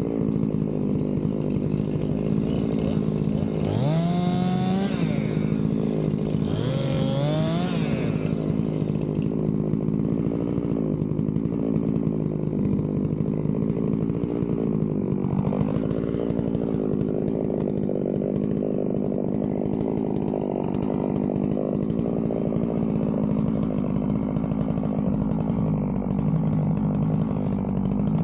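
Chainsaw milling a log, its engine running steadily at high speed. The pitch climbs twice in quick revs, about four and seven seconds in.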